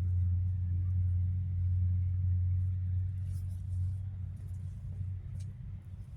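Steady low rumble of a vehicle running, easing off slightly after about three seconds.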